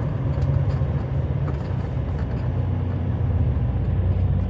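Semi-truck diesel engine running steadily at low speed, a constant low hum.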